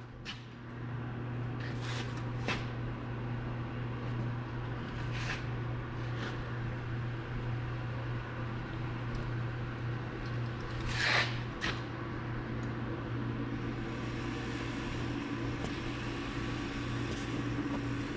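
Steady low machine hum, with a few brief scrapes or knocks on top, the loudest about eleven seconds in.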